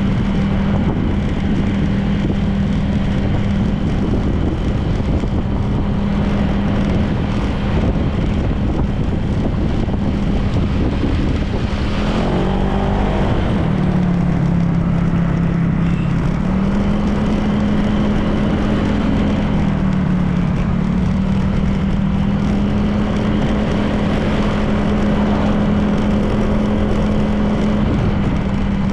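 Honda PCX 160 scooter's single-cylinder engine running at a steady cruise, with wind and road noise. Its pitch drops briefly about twelve seconds in, and again a little later, then picks back up.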